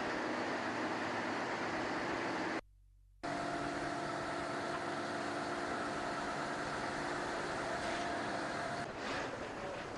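Steady machine running noise with a low hum. It cuts out for about half a second around three seconds in, then resumes with a few steady tones.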